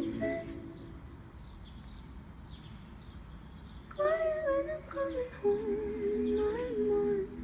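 Low background noise with faint high bird chirps, then a person humming a bending tune from about four seconds in.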